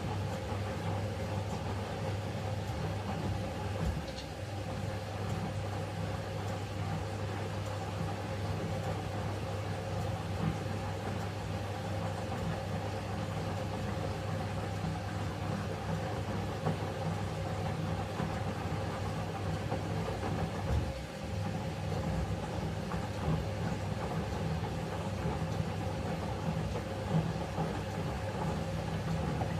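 Eudora 38 Super washing machine running, its motor and drum giving a steady hum that drops briefly twice, about 4 and 21 seconds in.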